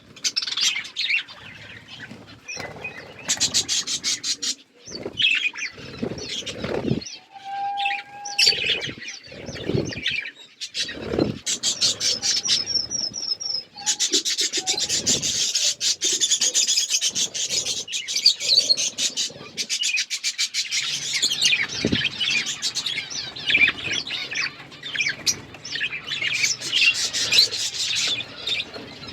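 Pet budgerigars chirping and chattering, short bright calls in irregular bursts at first, then a dense run of overlapping chatter about halfway through.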